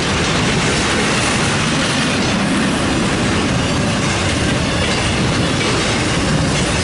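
Norfolk Southern freight train rolling past at close range: a steady, loud rumble of railcar wheels on the track.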